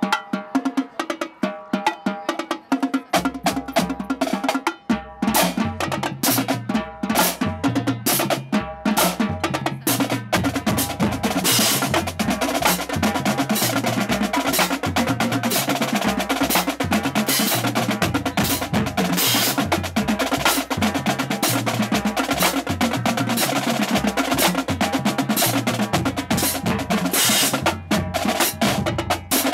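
Marching drumline playing a fast cadence: snare drums with rapid rolls and rimshots, joined about three seconds in by tuned bass drums running up and down through their pitches.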